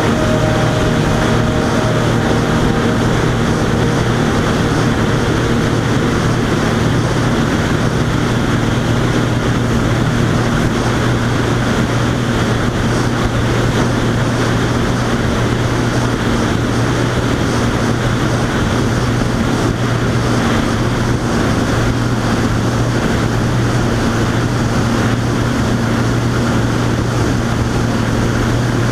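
Boat motor running steadily at speed, a constant low drone with wind and water noise.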